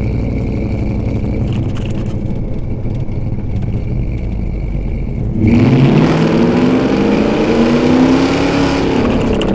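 Ford 7.3L Godzilla V8 breathing through a custom exhaust with long-tube headers, running steadily at low revs. About five seconds in it jumps louder and its note climbs as the engine picks up revs, then eases back down near the end.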